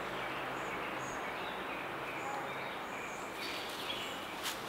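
Outdoor ambience: a steady hiss with faint, short, high bird chirps repeating irregularly, and a faint click near the end.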